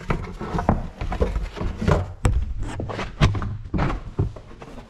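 A quick, irregular series of knocks, thuds and clatters from plastic interior trim being pulled loose and handled.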